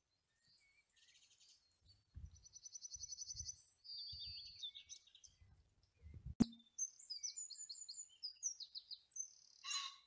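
Songbirds singing: a fast high trill, then varied chirps and whistles. Low rumbling bumps come and go in the first half, and there is one sharp click a little after six seconds in.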